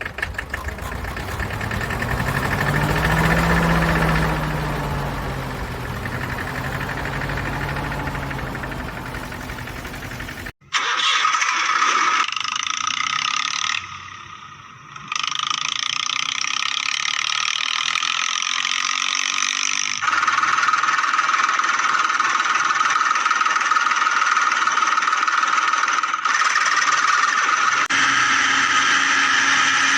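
Small electric motors of a toy mini tractor whining steadily, across several clips cut together. For about the first ten seconds a lower motor hum rises and falls in pitch, then it cuts to a higher, steady whine.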